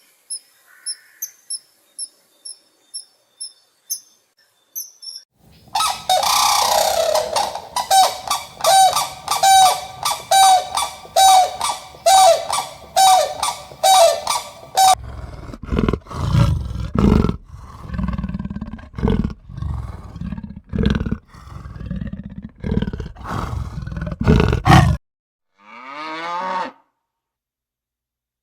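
High insect chirps at first. About five seconds in, a series of loud animal calls starts, repeated about twice a second, and turns at about fifteen seconds into a run of deep repeated roaring grunts. A short call falling in pitch comes near the end.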